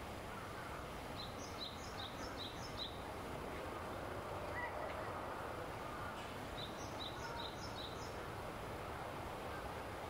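A small bird calling: two runs of about five quick, high repeated notes, a few seconds apart, over a steady low outdoor background noise.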